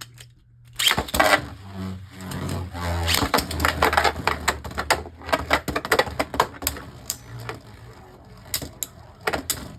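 Beyblade Burst spinning tops launched into a plastic stadium about a second in, then spinning and clashing: a rapid, irregular run of sharp plastic clicks and knocks.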